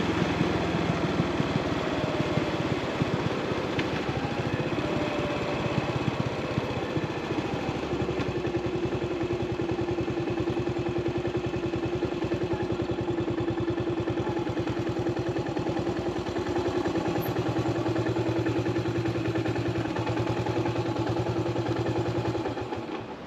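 Single-cylinder engine of a carbureted 2003 Yamaha SR400 running steadily under way, with a dense even pulsing. Its note shifts slightly about eight seconds in and again near seventeen seconds, and the sound fades out at the very end.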